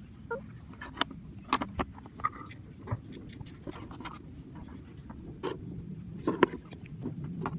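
Scattered light clicks and taps of Play-Doh tools and pieces being handled while modelling, over a low background rumble.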